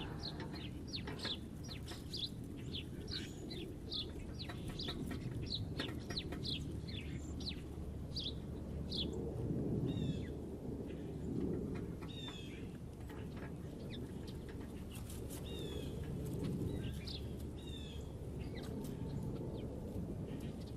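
Small songbirds chirping: a run of short, quick notes falling in pitch, about two a second for the first eight seconds or so, then scattered sharper chirps. A steady low rumble runs underneath.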